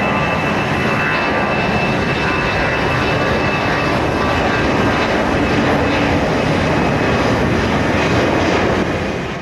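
Jet airliner's engines close by, a loud steady rush of noise with a thin high-pitched whine, cutting off sharply at the very end.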